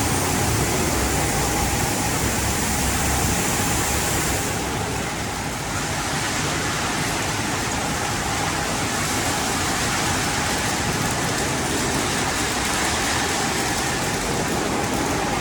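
Automatic conveyor car wash tunnel running: a steady rush of water spray and machinery noise, with a faint steady whine. The high hiss thins out about four and a half seconds in.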